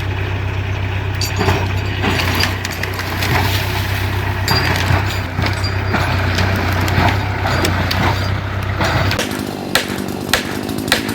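Timber cracking and snapping in many sharp splintering breaks as trees are felled, over a steady low machine hum that cuts off about nine seconds in. A few louder, separate cracks follow near the end.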